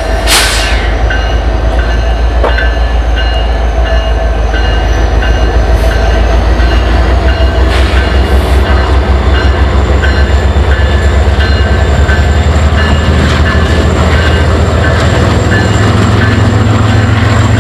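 Diesel freight locomotive engine throttling up under load with a steady low rumble. Its pitch and strength climb about twelve seconds in. A short hiss of air comes just after the start.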